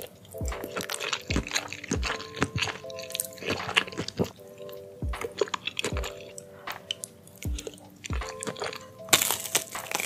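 Close-miked eating over background music with a steady beat: wet chewing of a mouthful of noodles and rice cakes, with many small clicks. About nine seconds in comes a loud crunchy bite into a fried, cheese-filled snack on a skewer.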